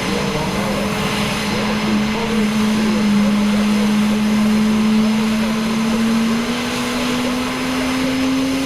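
Aircraft engine droning overhead, a steady tone that slowly rises in pitch over the seconds, over a haze of engine and wind noise.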